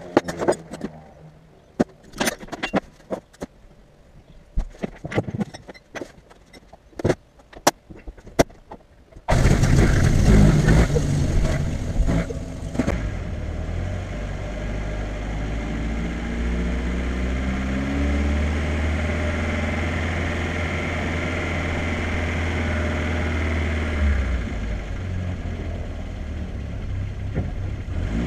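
A series of sharp clicks and knocks, then about nine seconds in the Skoda 1200's four-cylinder engine starts suddenly and keeps running, its pitch rising and falling as the car is driven slowly off the trailer.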